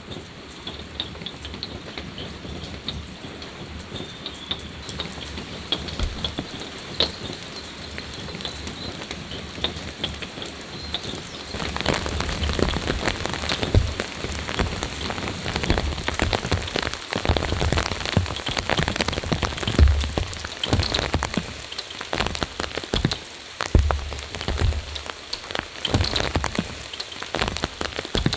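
Rain falling, with many separate drops hitting close by; it grows heavier about twelve seconds in.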